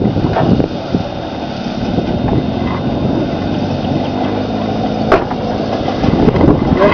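Steady engine rumble of a vehicle running, with one sharp click about five seconds in.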